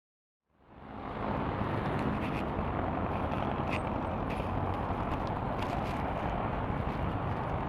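Steady road traffic noise picked up by an action camera's microphone, fading in about half a second in.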